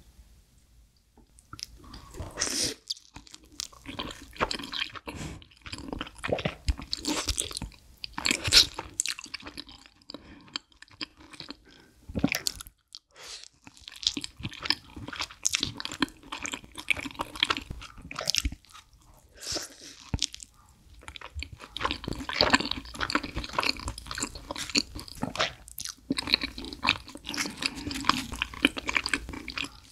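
Close-miked eating of thick-crust pizza: crunchy bites into the crust and wet chewing of cheesy, heavy toppings, in runs broken by a few brief pauses.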